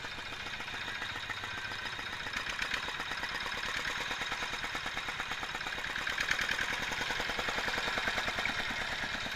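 Tractor diesel engine idling with a rapid, even knock, a little louder from about six seconds in. It has just been fitted with new piston rings and valve stem seals to cure its smoking, and it is running "halus" (smooth).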